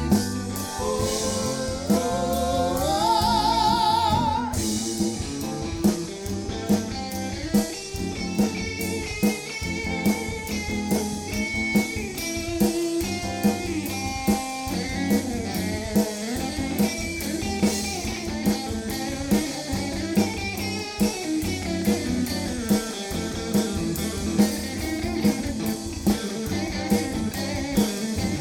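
Live band playing blues-flavoured music: a guitar lead over a steady drum-kit beat and low bass, with a held, wavering note that rises in pitch a couple of seconds in.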